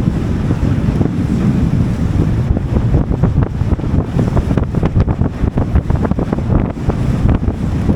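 Wind buffeting the microphone of a small boat under way, with a steady rush of water beneath.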